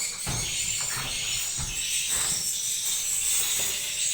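Dense, continuous high-pitched chirping of swiftlet calls filling the nesting house, with a few low knocks about a quarter second and a second and a half in.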